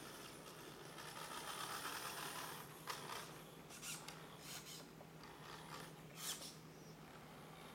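A small toy car rolling across a floor, a rough rattling rush for about a second and a half, followed by several short scratchy clicks.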